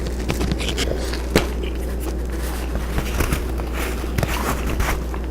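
Scattered crisp crunches and clicks of someone biting into and chewing a garlic bread pepperoni pizza with a crisped-up toasted crust, over a steady low hum.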